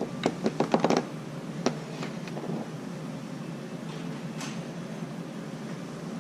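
A quick run of about six sharp clicks and knocks in the first second, then two more, from metal parts and tools being handled, over a steady low hum. A brief hiss follows about four seconds in.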